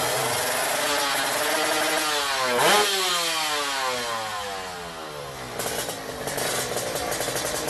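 Motorcycle engine at high revs, loudest about a third of the way in, then its pitch falls steadily as it fades away, as when a bike passes at speed. After that another engine runs more steadily.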